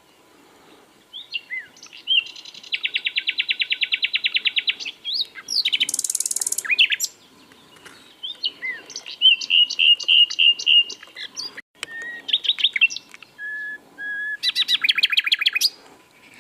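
Common nightingale singing a string of varied phrases with short pauses between them: fast runs of rapidly repeated notes, a high buzzy burst, and short pure whistles. The song starts about a second in.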